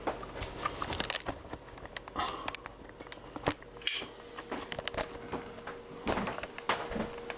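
Handling noise: scattered light clicks and rustles, with a short hiss about four seconds in.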